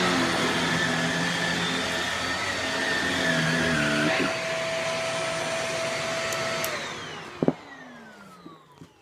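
Shark Rotator upright vacuum cleaner running, a steady motor hum with a high whine that wavers in pitch about halfway through. Near the end it is switched off and the motor winds down, its whine falling away, with a sharp click partway through the wind-down.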